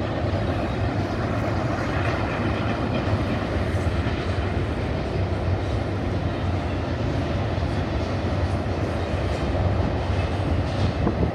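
Container freight train rolling by, a steady rumble of wheels on the rails.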